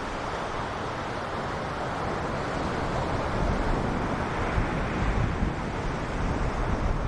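Ocean surf washing onto a beach, a steady rush that swells louder about halfway through as a wave breaks, with wind rumbling on the microphone.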